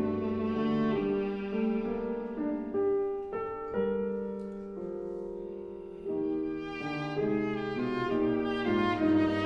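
Viola and piano playing together in a live chamber performance, with sustained bowed notes over piano chords. The playing eases to a quieter passage about four seconds in and grows louder again about six seconds in.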